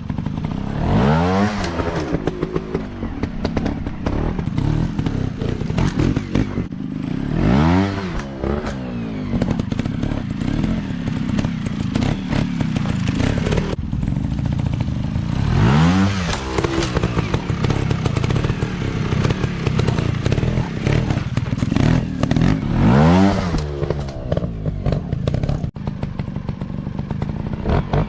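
Small off-road dirt bike engines running, the throttle opened and eased off about five times so the pitch climbs and drops back each time, with clattering and crackling between.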